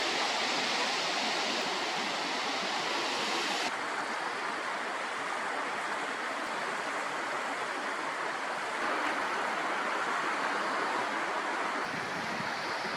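Steady rush of flowing stream water. Its high hiss drops abruptly about four seconds in.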